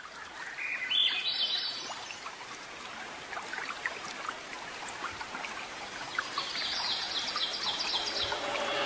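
Running water with bird calls over it: quick chirping notes stepping upward in pitch about a second in, and another run of chirps near the end.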